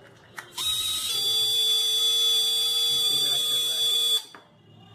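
Small toy DC motors powered from a USB power bank, spinning up with a steady high whine about half a second in and stopping abruptly after about three and a half seconds.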